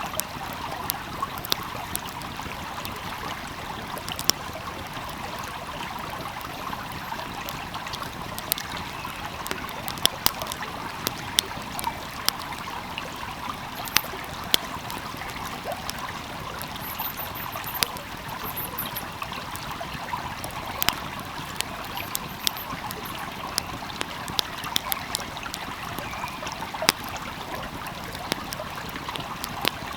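Wood fire crackling, with frequent irregular sharp pops and snaps, over the steady rush of a flowing stream.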